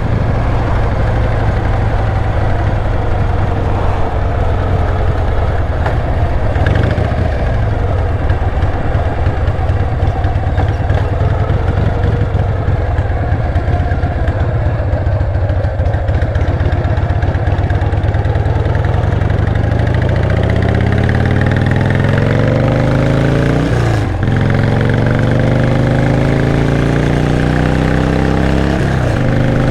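Older motorcycle's engine running at a steady cruise while riding, then accelerating with a rising pitch over the last third, dropping briefly twice as it shifts up a gear.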